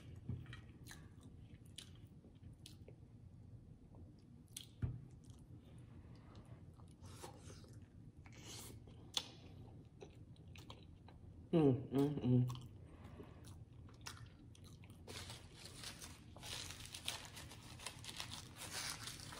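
Close-miked chewing and wet mouth sounds of someone eating, with small clicks and crunches. About twelve seconds in comes a short hummed 'mmm', and near the end a paper napkin rustles at the mouth.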